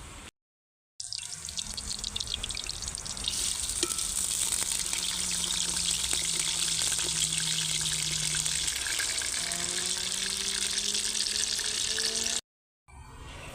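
Food sizzling and crackling in hot oil in a pan. The sizzle grows louder about three seconds in, over a faint low hum that rises in pitch near the end. The sound drops out to silence briefly at edit cuts near the start and the end.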